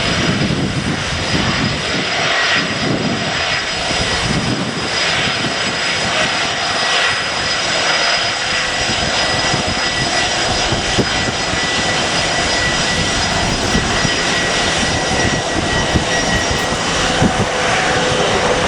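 Airliner jet engines running, a steady roar with a high steady whine held through it, while gusty wind buffets the microphone.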